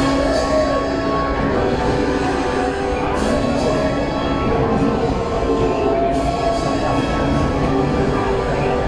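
Dark, ominous orchestral music with held notes, playing over the steady low rumble of the moving train.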